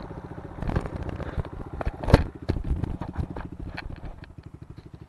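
Kawasaki KLX110 pit bike's small single-cylinder four-stroke engine running at low revs with an even, fast pulse. Irregular knocks and rattles sound over it, with one sharp loud knock about two seconds in.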